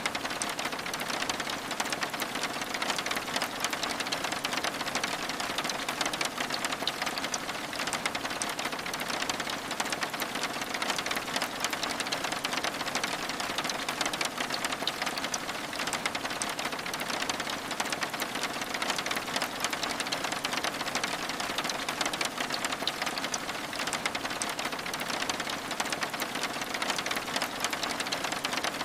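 Steady rain, a dense even patter of fine drops on window glass that does not change in strength.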